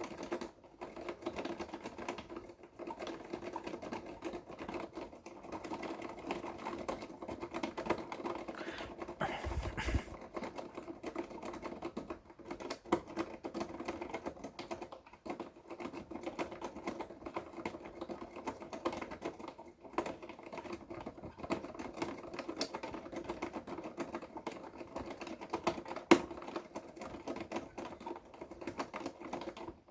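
Electric fan's push-button speed keys (stop, breeze, low, high) pressed rapidly and at random, a dense, continuous clatter of clicks like fast typing, over a steady hum from the fan, with one sharper click about 26 seconds in.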